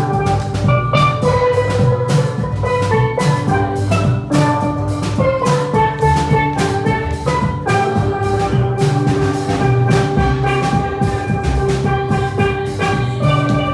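A live church band playing an upbeat hymn tune with a steady marching beat: melody notes over drums.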